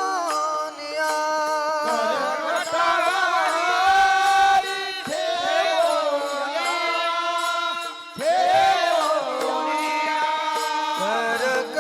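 A male voice singing a devotional bhajan in long, gliding held notes, over a steady drone accompaniment with light regular percussion ticks.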